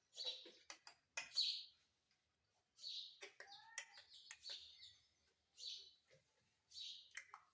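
Ringneck parrot giving a series of short, high chirping calls, about one every second, with a few clicks and gliding notes between them.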